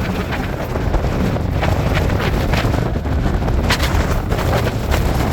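Strong, gusty wind buffeting the microphone: a heavy, uneven low rumble broken by sharp, irregular cracks and thumps.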